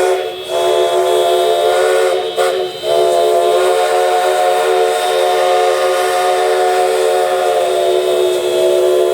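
Steam locomotive whistle blowing loudly: a short break just after it starts and another about two and a half seconds in, then one long blast held for about six seconds.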